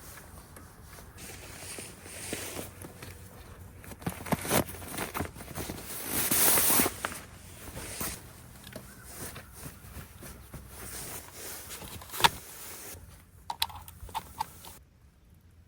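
Irregular handling sounds: rustling and scraping with scattered clicks and knocks, a sharp click about twelve seconds in and a few light clicks just after.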